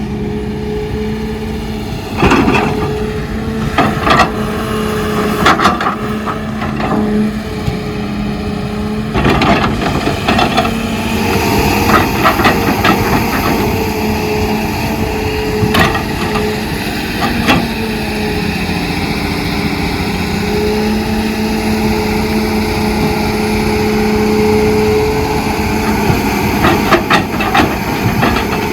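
Heavy diesel engine of an excavator running steadily, with a scatter of sharp knocks and clanks from the machine's bucket and the material it handles.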